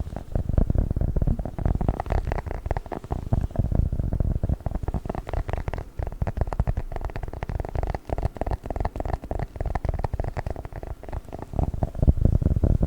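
Close-miked squishing and handling of a squishy 'chocolate book' toy: a dense, continuous run of soft crackles and squelches, low in pitch.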